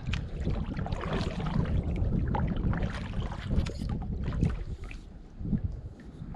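Wind buffeting the microphone as a low rumble, with water slapping and small knocks against the hull of a Vibe Shearwater 125 fishing kayak.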